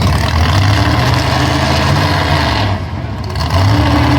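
Pulling vehicle's engine running loud and steady, dropping off briefly about three seconds in and then picking back up.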